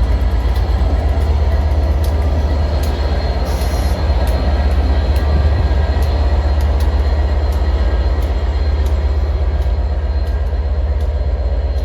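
A train running past at close range: a loud steady rumble of the train with its wheels clicking sharply over the rail joints.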